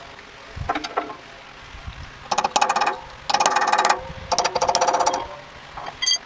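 Pneumatic shop tool running in three short bursts of rapid clattering, then a brief metallic clink near the end.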